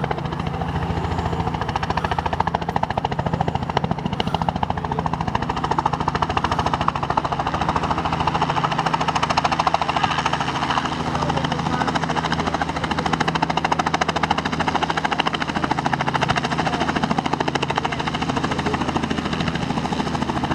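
Helicopter running steadily, its rotor beating fast and even over a low engine hum.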